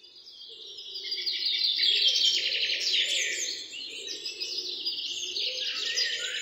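Many small birds chirping and trilling together in a busy morning chorus, fading in over the first second or two.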